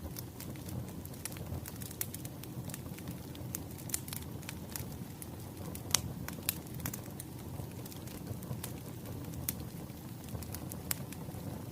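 Wood fire crackling: a steady low rumble of burning logs with irregular sharp pops and snaps, the loudest about six seconds in.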